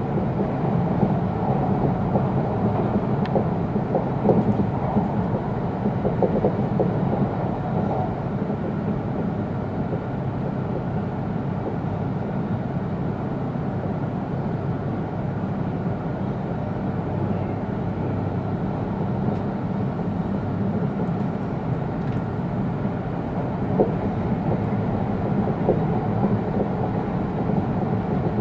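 Steady running noise heard inside an E2-series Tohoku Shinkansen passenger car: a low, even rumble of wheels on rail and air, with a few light knocks here and there.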